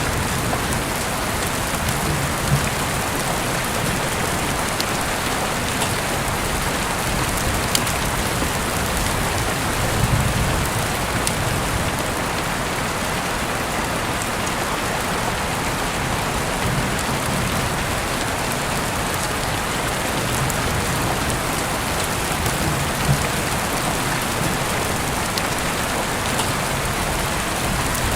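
Heavy rain falling steadily, with scattered individual drops ticking and a brief low rumble about ten seconds in.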